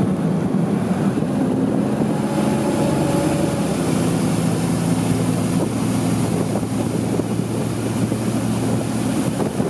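Motorboat engine running steadily at speed, with wind on the microphone.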